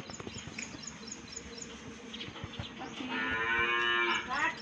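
A cow moos once, about three seconds in: a drawn-out call of about a second and a half that rises in pitch at the end. Faint, rapid, high chirping runs underneath throughout.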